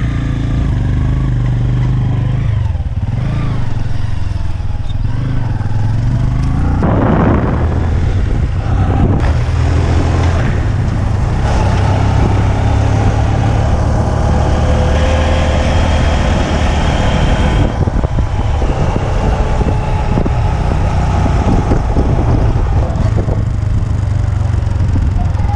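A motor vehicle's engine running steadily, with road and wind noise over it.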